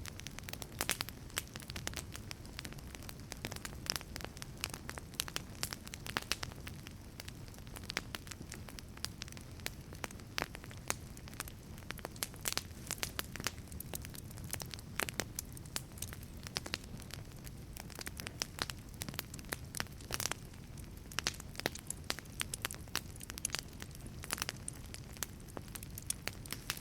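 Wood fire burning in a wood-fired pizza oven: irregular sharp crackles and pops from the burning logs over a low steady rumble of the flames.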